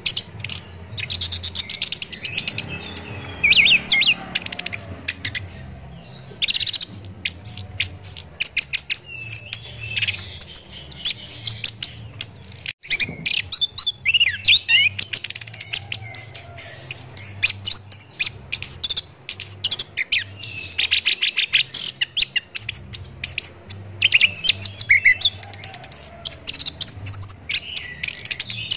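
Chestnut-capped thrush (anis kembang) singing a fast, varied song of chirps, trills and short whistles, phrase after phrase with brief pauses, over a faint low hum.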